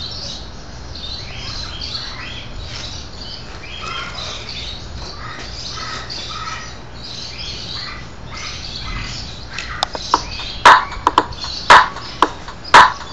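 Birds chirping and squawking outdoors. From about ten seconds in, loud sharp percussive hits come about once a second, with softer ones between.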